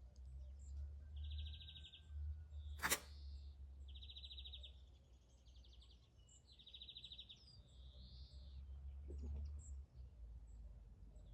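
A small songbird repeating a short, fast trill phrase every second or so. A sharp click about three seconds in, over a steady low rumble.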